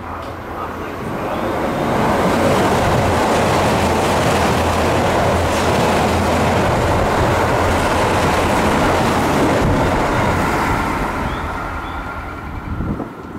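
Keio 7000-series electric train passing through the station at speed without stopping. The noise of wheels on rail and the passing cars builds over about two seconds, stays loud for around nine seconds, then fades away near the end.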